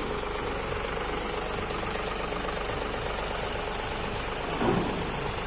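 Diesel engine of a new John Deere 5210 tractor idling steadily. A brief louder sound breaks in near the end.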